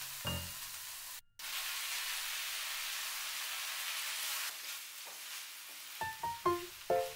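Canned corned beef and sliced onions frying in oil in a nonstick pan, sizzling steadily as they are stirred with a wooden spoon. The sizzle starts after a short break about a second in and fades a few seconds later. Piano music plays at the very start and comes back near the end.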